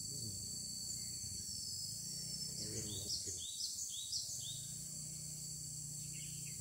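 Steady high-pitched insect drone, with a quick run of about seven short bird-call notes at roughly four a second midway through.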